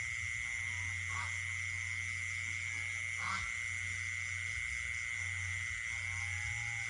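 Night chorus of frogs and insects: a steady, high-pitched insect trill with short frog croaks about a second in, around three seconds in and again at the end, over a low steady hum.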